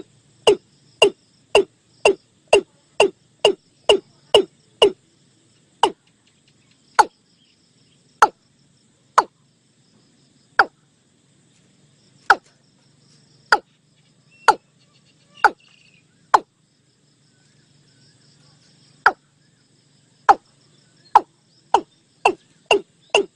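Repeated calls of the bird known in Thai as nok i-klung: short, sharp notes, about two a second at first, slowing to roughly one a second through the middle with a pause of a few seconds, then quickening again near the end. Faint insect trilling runs underneath.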